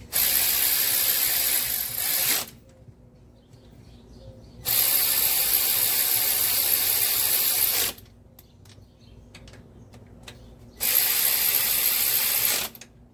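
Power ratchet running bolts down in three bursts of about two to three seconds each, with short pauses between them.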